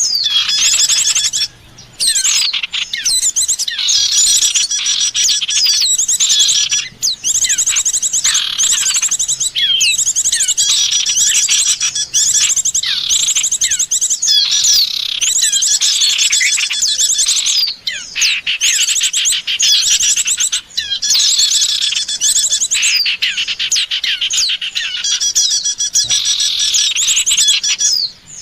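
Small songbirds chirping and trilling in a dense, rapid stream of high overlapping notes, with brief breaks: a looped bird-luring call recording.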